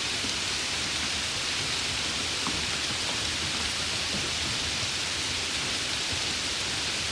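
Steady rain hiss, an even wash of falling rain with a few faint individual drop ticks.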